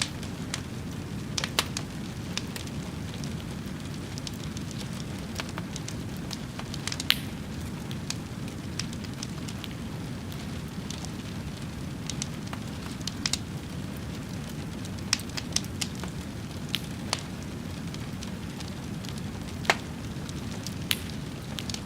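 A fire burning with a steady low rush of flame and irregular sharp crackles and pops, roughly one a second.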